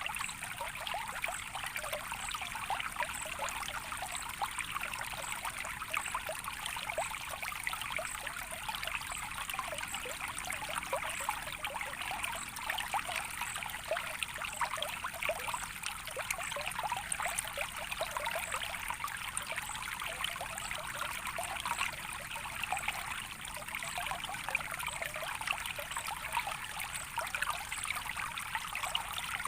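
A small stream trickling and bubbling steadily over its bed, an even babble with no change in flow.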